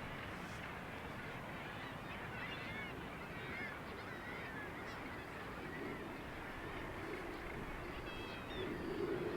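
Mixed seabird colony of gannets, kittiwakes and auks calling: many short, harsh calls overlapping over a steady background haze, growing louder near the end.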